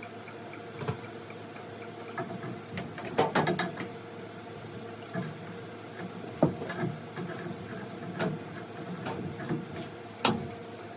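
Scattered clicks and clanks of work on a hot water heater's water line fittings, a few knocks at a time, over a steady hum.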